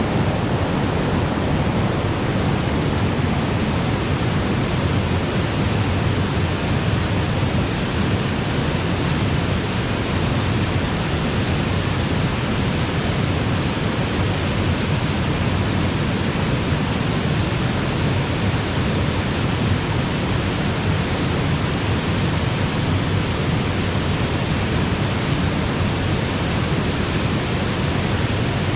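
Falling water of a mountain-gorge cascade, a dense, steady rushing noise that stays even throughout, heaviest in the low range.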